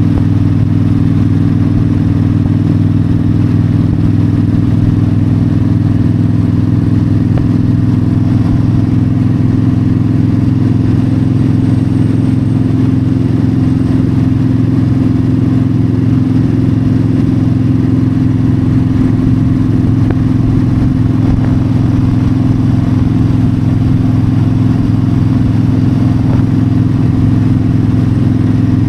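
Yamaha V-Star 1300's V-twin engine running steadily at a constant cruising speed, with wind noise over it.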